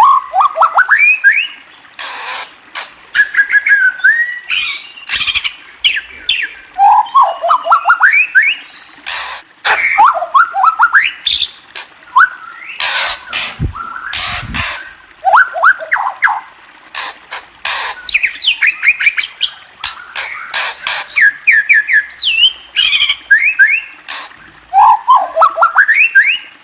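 Murai songbird calling: quick runs of short rising chirps, repeated every couple of seconds, mixed with many sharp, loud clicking notes.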